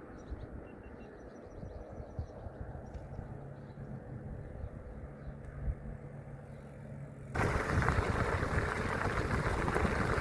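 Low rumbling outdoor noise with a faint steady hum and faint bird chirps. About seven seconds in it jumps suddenly to loud rushing noise, like wind and road noise on the microphone of a moving bicycle.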